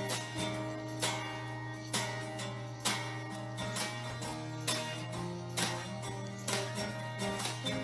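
Acoustic guitar strummed in an instrumental passage of a pop-folk song, with regular strokes about once a second over held notes and no singing.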